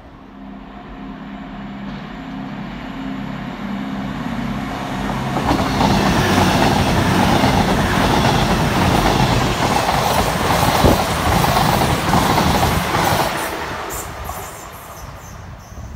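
CrossCountry Voyager diesel-electric multiple units (Class 221 coupled to Class 220) approaching and passing at speed. The hum of the underfloor diesel engines grows over the first few seconds. Then comes a loud rush of wheels on the rails for about eight seconds, which fades as the train goes away near the end.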